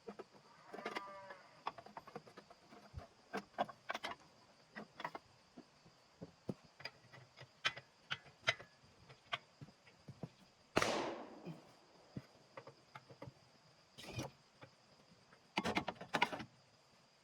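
Irregular knocks and clicks of tools and metal parts during hand work on the engine, with a short squeak about a second in and one falling swish about eleven seconds in. A steady faint high tone runs underneath.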